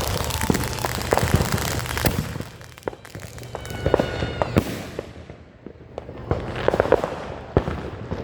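Consumer fireworks going off: a dense run of rapid pops for about two seconds, then sparser bangs with a brief whistle about four seconds in, and another quick flurry of pops near the end.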